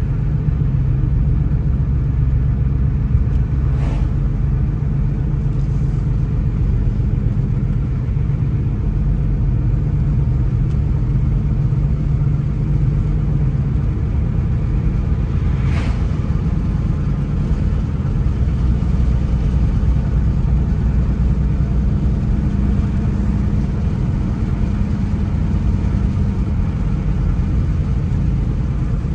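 A car driving at a steady pace: a continuous low engine and road rumble that shifts slightly in pitch, with two faint ticks along the way.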